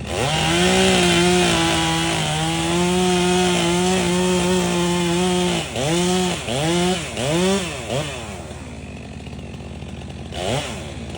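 Chainsaw held at full throttle for about five and a half seconds, cutting through maple wood. It is then blipped in four quick revs and drops back to idle, with two more quick revs near the end.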